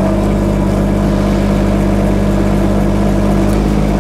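Water-cooled Kubota diesel engine of a 1.2-ton compact excavator running steadily at raised throttle, its speed held even.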